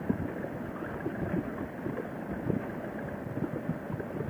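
Motorcycle at road speed: a steady rush of wind, engine and road noise, with irregular gusty buffeting.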